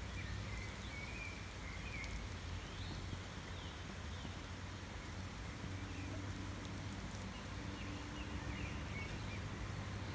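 Outdoor rural ambience: faint, scattered bird chirps over a steady hiss and a low hum, with a few faint ticks.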